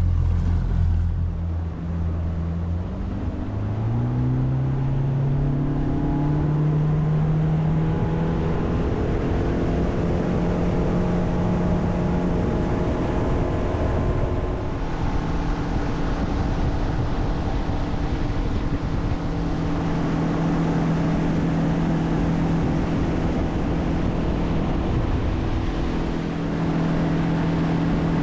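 Outboard motor of a small fishing boat revving up over a few seconds, then running steadily at speed over a constant rush of noise, with a brief change in engine note about halfway through.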